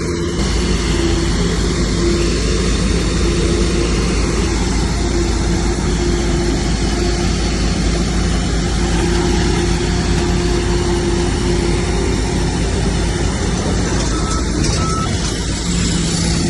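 Heavy earthmoving machine's diesel engine running steadily at working speed, with a deep rumble and a steady engine drone.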